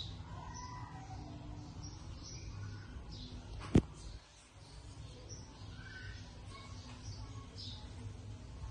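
Faint bird chirps over a steady low background hum, with one sharp click a little under four seconds in.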